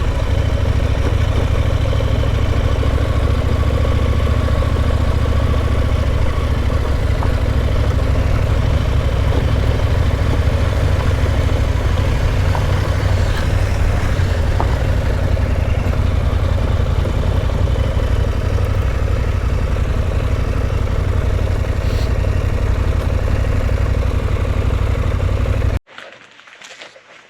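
Adventure motorcycle engine running steadily under way, with a heavy low rumble. It cuts off abruptly about a second before the end.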